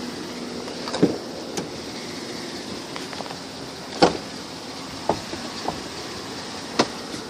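Truck engine idling with a steady hum, with about seven scattered clicks and knocks over it; the sharpest come about a second in and about four seconds in.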